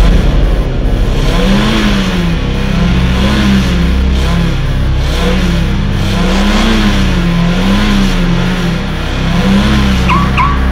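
A car engine sound revving up and falling back again and again, about once a second or so, with two short high chirps near the end. It comes from a rigged car that will not fall silent.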